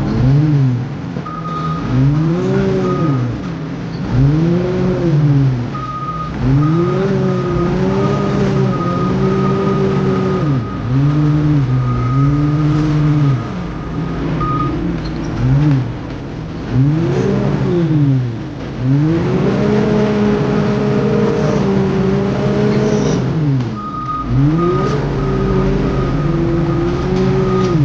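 Heavy diesel construction machine's engine revving up and falling back again and again, about every two seconds, as it works under load. A repeating high-pitched reversing beeper sounds in runs, near the start, through the middle and near the end.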